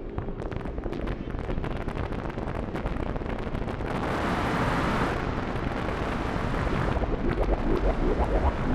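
Make Noise 0-Coast synthesizer playing a self-generating Krell patch through reverb and delay: a dense crackle of rapid clicks over a low rumble, with a hissing noise swelling about four seconds in and dying away by about five.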